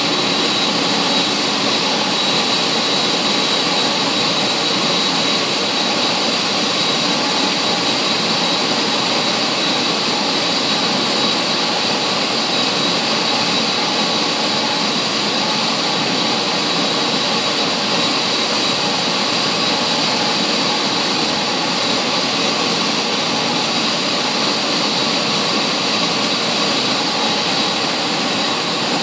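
Jet engines of a JetBlue Airbus A320 (IAE V2500 turbofans) running steadily, a continuous rushing noise with a steady high whine.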